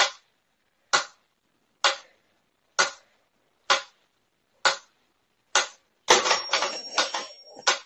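Sharp knocks or taps, seven in a row about a second apart, then a quicker flurry of knocks near the end with a faint high steady tone.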